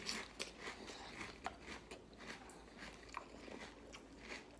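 Someone chewing a mouthful of Chocolate Toast Crunch cereal, with faint, irregular crunches several times a second.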